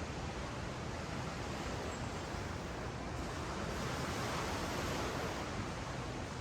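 Ocean waves washing up and down a sandy beach, a steady surf hiss that swells gently a little past the middle.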